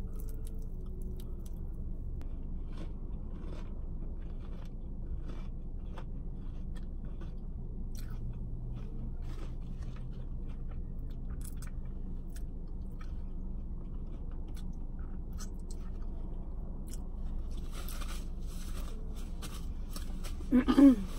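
Close-up chewing and small crunchy mouth sounds of someone eating filled churro bites, over a steady low hum. A short, loud vocal sound with a falling pitch comes near the end.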